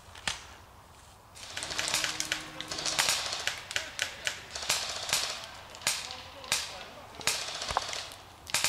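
Airsoft guns firing: irregular sharp snaps, a quick cluster about a second and a half in, then single shots roughly once or twice a second.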